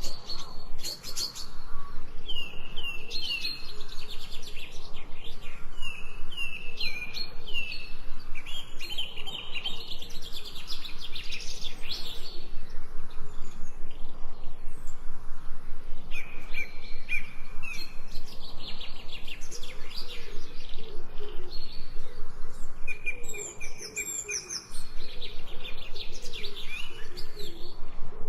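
Several birds chirping and singing at once, a dense chorus of short overlapping calls. Among them are runs of quick falling chirps repeated one after another.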